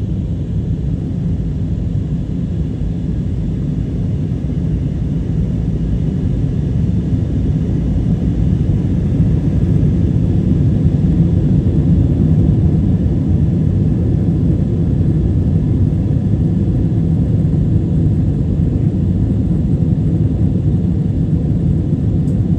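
Steady low rumble of a running vehicle, growing a little louder about a third of the way through.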